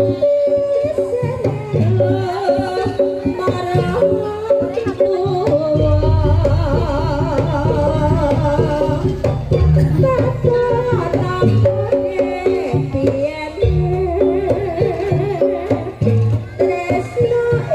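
Live Javanese jaranan gamelan music: hand drums beating under a wavering, ornamented melody line, with a deep low tone sustained through the middle.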